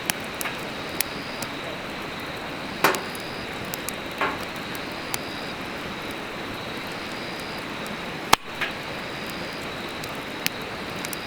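Firewood burning in a fire pit: a steady rushing hiss with scattered sharp crackles and pops, the loudest about eight seconds in.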